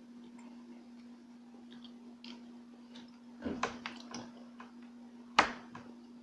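Close-miked eating of kakanin: soft chewing clicks, a short burst of wet mouth noises about three and a half seconds in, and one sharp smack near the end, over a steady low hum.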